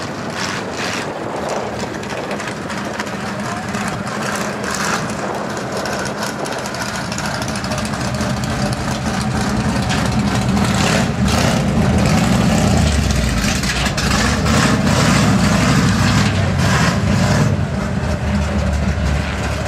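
1970 Chevy C10 pickup's engine running on a chassis dyno, getting louder and heavier about halfway through.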